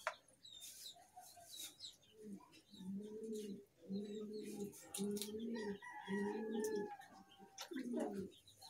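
A bird cooing, a low call repeated about once a second and starting about two seconds in, with light clicks and scrapes from a knife cleaning fish in a basin.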